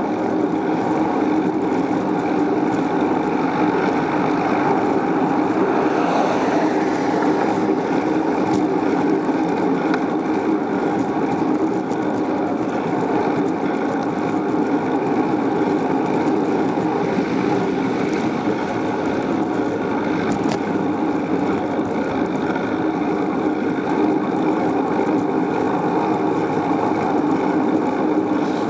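Steady wind and rolling noise on the microphone of a camera riding along on a moving bicycle.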